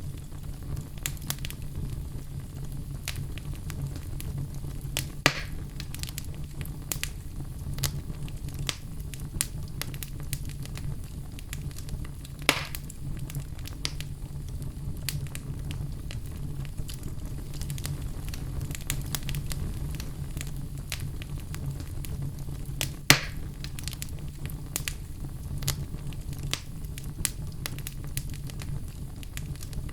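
Wood fire burning in a fireplace: a steady low rumble with constant small crackles and three louder sharp pops.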